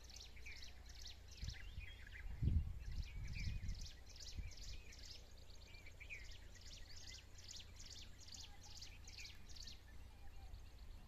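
Small birds chirping over and over in short, high calls. Low rumbling thumps on the microphone come between about one and a half and four and a half seconds in, loudest about two and a half seconds in.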